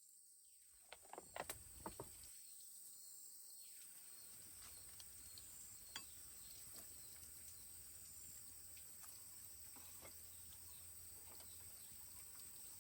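Near silence: faint outdoor background with a thin steady high-pitched whine, broken by a handful of sharp clicks between one and two seconds in and one more about six seconds in.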